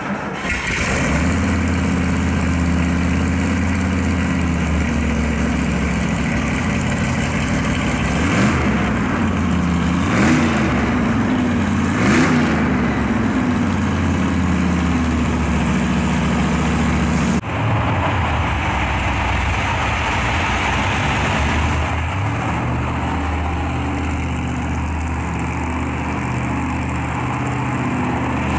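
Supercharged 327 small-block V8 of a customised 1962 Chevrolet Corvette, topped by a 4-71 Cragar blower, idling. It is revved briefly three times, about eight, ten and twelve seconds in. The sound breaks off abruptly past the middle, then the idle carries on.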